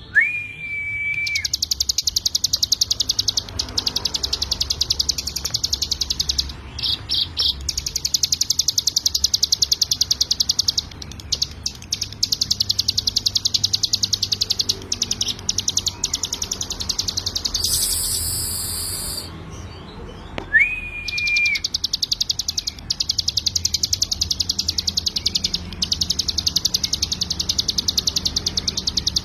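Ciblek gunung (mountain prinia) singing its rapid 'ngebren' song: long runs of very fast, evenly repeated high notes lasting several seconds each, broken by short pauses. A steady, lower whistled note sounds twice, right at the start and about two-thirds of the way through.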